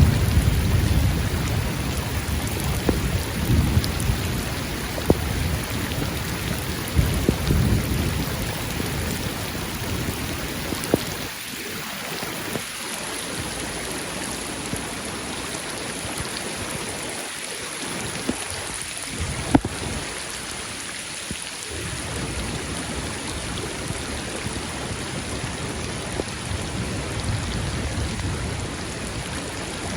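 Steady rain falling during a thunderstorm, with a low thunder rumble over the first ten seconds or so that dies away. Scattered sharper raindrop ticks sound through the rain.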